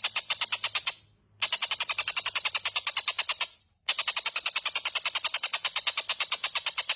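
Tengkek buto bird calling: a fast, steady run of harsh, high notes, about ten a second, broken twice by a sudden half-second silence, about a second in and again past the middle.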